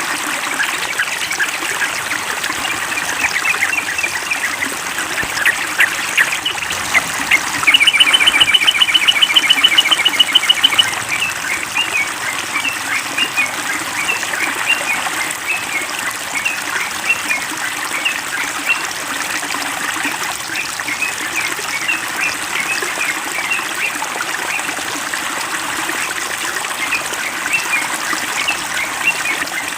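Yellow-vented bulbuls chirping in short repeated notes over a steady trickle of running water from a bird-bath or water-therapy setup. About eight seconds in comes a fast rattling run of notes lasting about three seconds, the loudest part.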